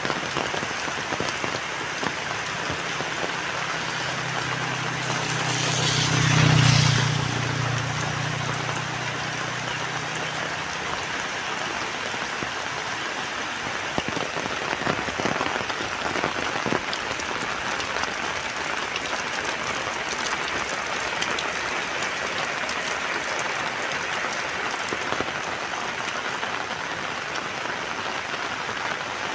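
Heavy rain falling steadily. A motor vehicle passes close by, its engine hum swelling and fading between about four and ten seconds in, loudest around six seconds.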